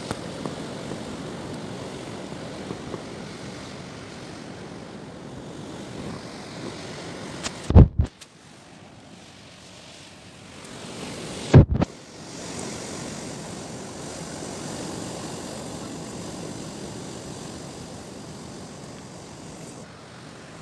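Strong wind blowing across the microphone: a steady rush of noise, with two hard buffets that overload it about eight and twelve seconds in.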